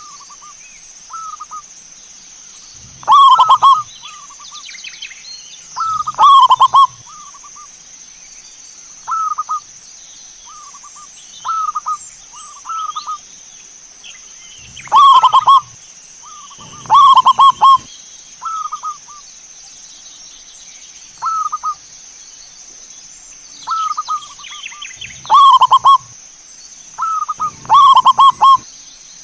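Zebra doves (perkutut) cooing: short rolling, trilled coo phrases repeated every second or two, some loud and close, others softer, over a steady high hiss.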